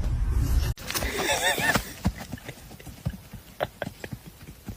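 An animal's wavering, pitched call lasting about a second, followed by a run of short, irregular clicks or knocks.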